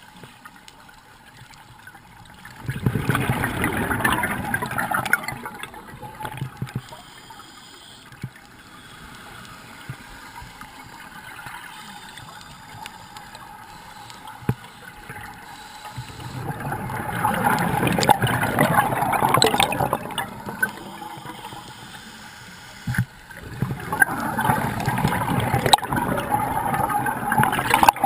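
Scuba diver's regulator exhaust bubbles underwater: three long bubbling exhalations, about 3 s in, 16 s in and 23 s in, with quieter stretches of the inhale and water hiss between.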